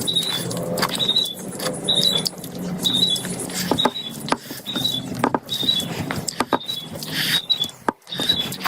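Close-miked eating sounds from a curry mukbang: irregular wet smacks and clicks of chewing. Under them a short, high chirp repeats about every 0.8 seconds.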